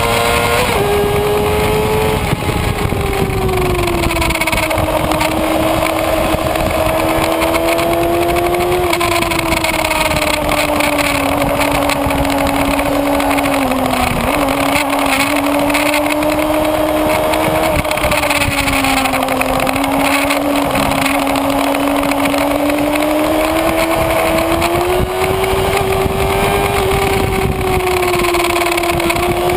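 Kawasaki Ninja ZX-6R inline-four engine running hard at high revs, heard on board over heavy wind rush. Its pitch drifts up and down with the throttle, with a gear change about a second in and a brief dip in revs about halfway through.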